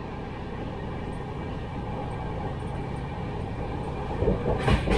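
Steady rumble of a train running on the tracks, with a few louder knocks near the end.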